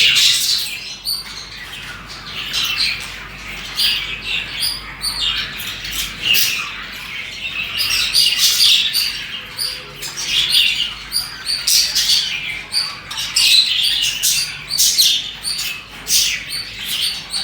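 A group of budgerigars chirping, chattering and squawking continually, with many overlapping short, high calls.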